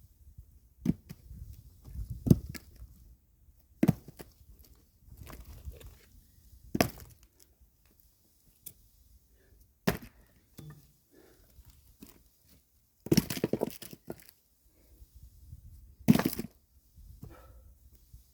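Axe splitting firewood: sharp wood-chopping strikes every two to three seconds, about seven in all. A couple of them near the end are longer and more ragged, as the wood splits and splinters.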